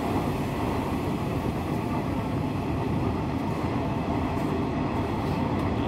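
Hanshin Railway electric train running at speed, heard from inside the front car: a steady rumble of wheels on rails and running noise.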